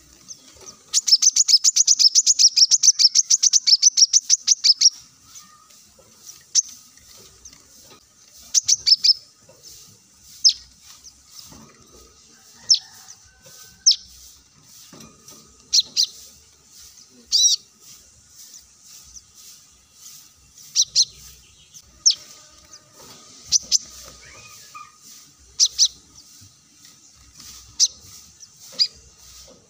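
Brown-throated sunbird (kolibri kelapa) singing: a fast, high trill of sharp notes lasting about four seconds, then single sharp high chirps every second or two.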